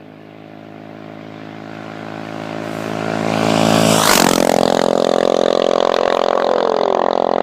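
Motorcycle engine approaching and growing steadily louder, then passing close by about four seconds in with a sudden drop in pitch. A loud, steady rushing noise follows.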